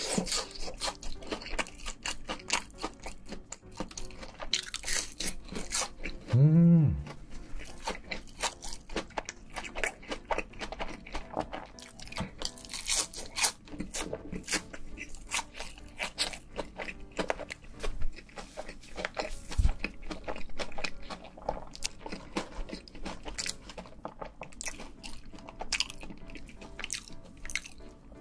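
Close-miked crunching and chewing of a crispy hash brown, many sharp crunches in quick succession. About six and a half seconds in, a brief hum rising and falling in pitch is the loudest sound.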